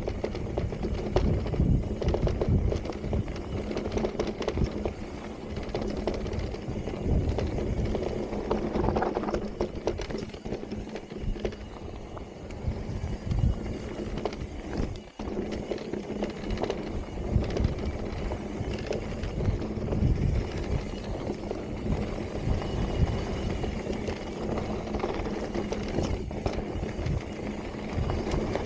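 Santa Cruz Heckler electric mountain bike riding over dirt singletrack with loose and embedded rocks: tyres crunching on gravel, with a constant irregular rattle and knocking from the bike over the bumps.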